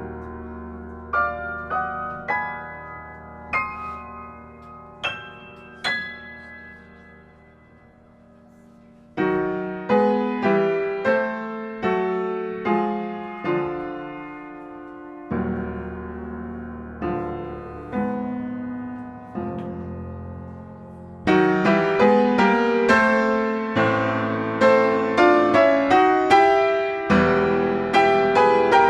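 Solo piano: sparse single notes and small chords climbing higher and left to ring, then a brief hush. Fuller chords come in about nine seconds in, and the playing grows louder and busier with quick repeated chords in the last third.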